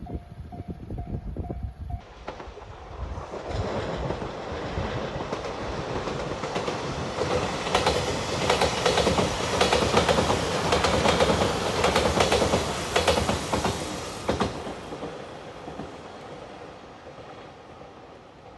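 A level-crossing warning bell rings in quick, even dings for about two seconds. Then a five-car JR Shikoku Shiokaze limited-express electric train comes up, passes with its wheels clacking over the rail joints from about eight to fourteen seconds in, and fades away.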